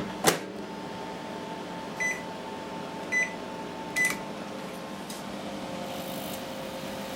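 Modified 1600 W LG IntelliWave microwave oven running with its cooling fans on all the time, giving a steady hum. There is a click near the start, and three short beeps from the keypad at about two, three and four seconds.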